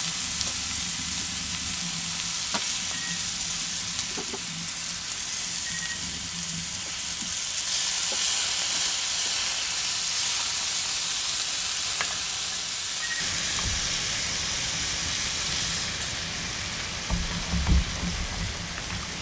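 Food sizzling in a frying pan: a steady hiss with a few faint pops, with some low bumps near the end.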